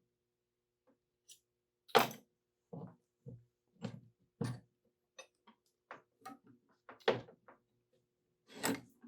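Irregular knocks, clicks and clunks of metal tools and parts being handled on a workbench, with the loudest knock about two seconds in, over a faint steady hum.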